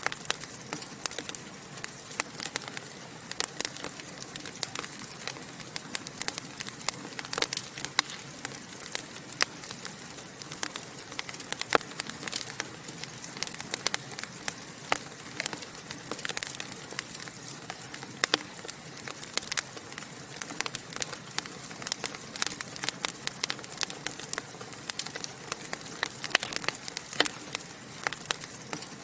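Wood fire in a fireplace crackling and popping: many sharp irregular pops, several a second, over a steady soft hiss.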